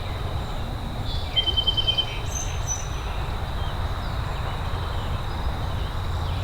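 Outdoor ambience: a steady low rush with a constant high insect-like whine, and a bird giving a few short chirping trills between about one and three seconds in.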